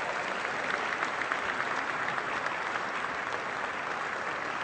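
Audience applauding steadily after a winner is announced.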